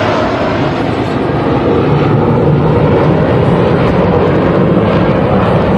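BAE Hawk T1 display jets flying over, a loud steady jet roar that swells a little about a second and a half in.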